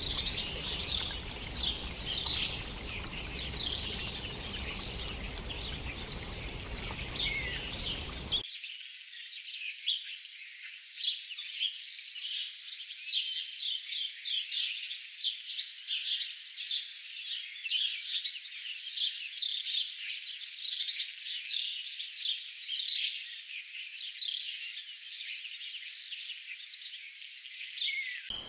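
Dense chorus of many birds calling in quick, short chirps. A low background noise under them stops abruptly about eight seconds in, leaving only the bird calls.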